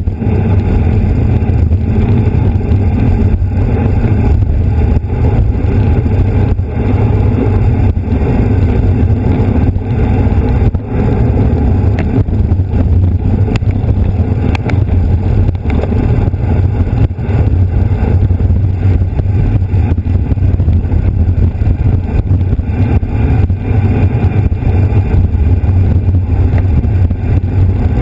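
Wind buffeting a bike-mounted camera's microphone at racing speed, a loud steady rumble with tyre and road noise underneath.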